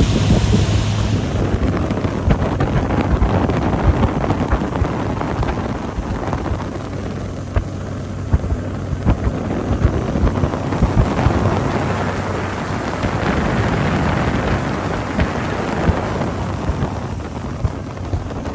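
Outboard-powered fishing boat running at speed: heavy wind buffeting the microphone over the engine, with frequent irregular knocks.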